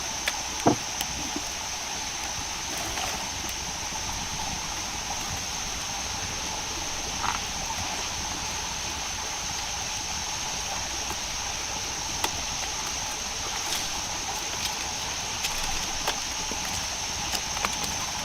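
Rainforest ambience: a steady high-pitched drone and a lower steady hum from the forest's calling animals, with a few sharp clicks and knocks scattered through it, the loudest about a second in.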